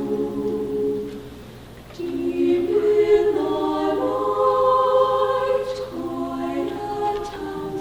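Madrigal choir singing a cappella in held chords. One phrase dies away about a second in, and after a short pause the next phrase begins about two seconds in.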